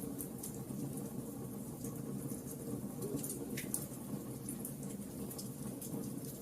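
Bonfire crackling: scattered sharp pops and snaps from the burning wood over a steady low rumble of the flames.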